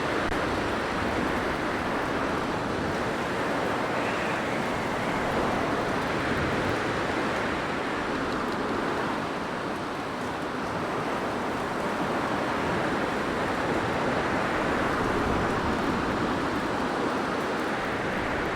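Blizzard wind blowing steadily: a dense rushing noise that eases slightly about halfway through, then builds again.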